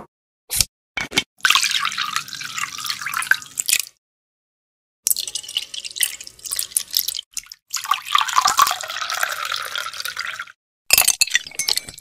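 Liquids poured into a glass of ice in separate pours. First comes a couple of short clicks, then Cointreau orange liqueur poured in, then chilled coffee splashing and trickling over the ice cubes. Near the end a bar spoon clinks against the ice and glass as the drink is stirred.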